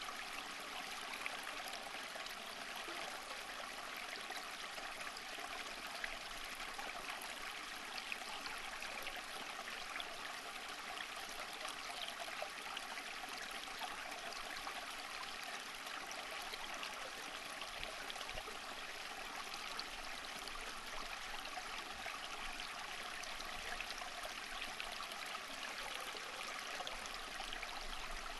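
Running water, like a small stream, flowing and trickling with a steady, even splashing.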